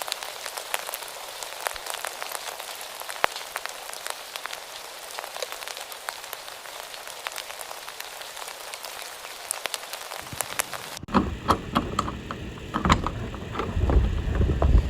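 Rain falling steadily on outdoor surfaces, an even patter with many individual drops ticking. About eleven seconds in it cuts abruptly to a different, lower rumbling sound with scattered knocks.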